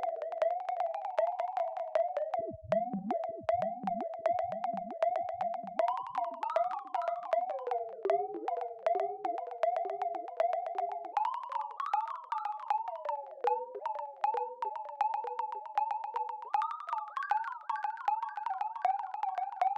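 Synthesized R2-D2-style robot chatter: rapid warbling, gliding bleeps and chirps over a fast stream of clicks, with a few deep downward swoops about three to five seconds in.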